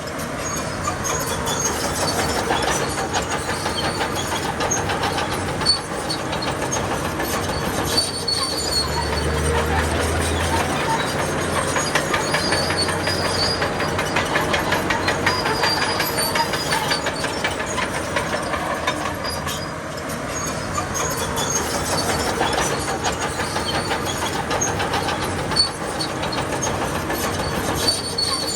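Crawler bulldozer working: its diesel engine running under load, with a steady dense clatter and squeal of steel tracks.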